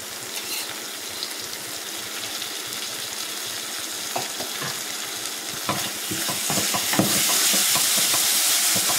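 Onion-tomato masala sizzling in an open stainless steel pressure cooker as thick curd is spooned in and then stirred through with a wooden spatula. There are a few light knocks, and the sizzle grows louder about seven seconds in as the stirring starts.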